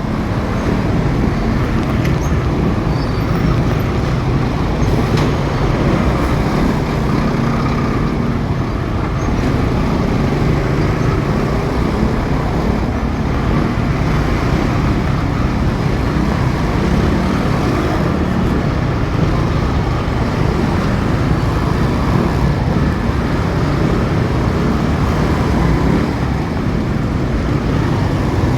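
A motorcycle on the move in city traffic: steady engine and road noise with no breaks.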